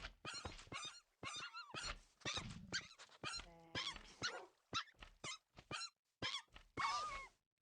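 Foxes calling: a rapid series of short, high-pitched whining squeaks with wavering pitch, and a lower rattling growl near the middle.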